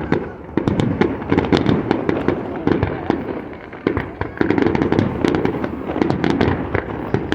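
Aerial fireworks display: shells bursting and crackling in rapid succession, with a brief lull about four seconds in.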